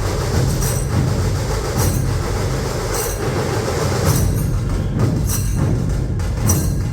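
Dhol-tasha ensemble drumming: massed dhol drums beating a loud, dense, steady rhythm with tasha drums over them, and sharp high accents about once a second.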